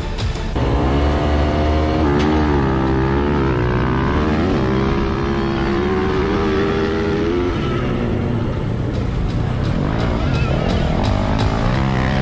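Motocross dirt bike engine revving, its pitch rising and falling again and again.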